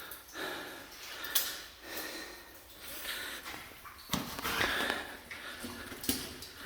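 A person's breathing and sniffing, with rustling and a few sharp clicks or knocks from moving over a cave floor.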